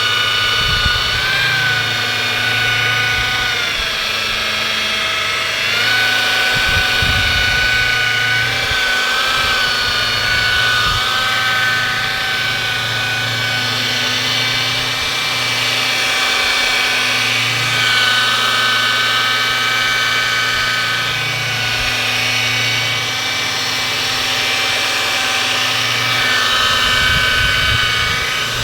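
Electric car-body polisher running steadily with a motor whine whose pitch sags briefly several times and recovers, as the pad is pressed and eased on the paint while buffing out sanding marks with rubbing compound.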